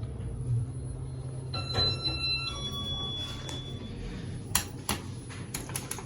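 Otis Gen2 traction elevator with a steady low hum, a short electronic chime about two seconds in, and a run of sharp clicks near the end as the doors work.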